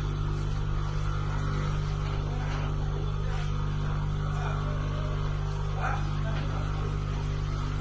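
Rotary air-conditioner compressor humming steadily under power, a constant low mains-frequency drone with a few faint ticks.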